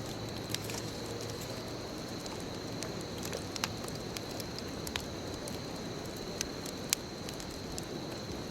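Wood bonfire crackling: a steady hiss of burning with scattered sharp pops, a few of them louder, about half a second in and again near 3.5, 5 and 7 seconds.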